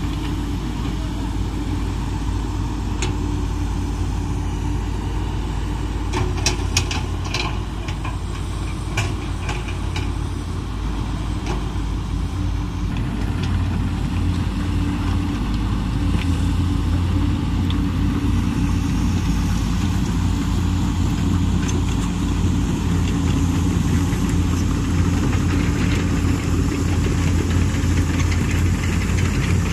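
Komatsu PC200 hydraulic excavator's diesel engine running steadily, with a handful of sharp metallic clicks about a third of the way in. The engine grows louder from about halfway through.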